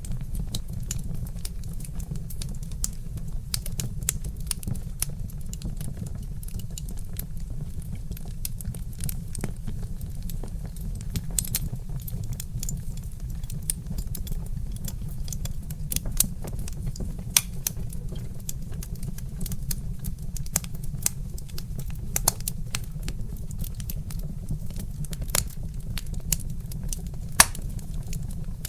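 Wood fire crackling: irregular sharp pops and snaps from burning logs over a steady low rumble, with a few louder pops now and then.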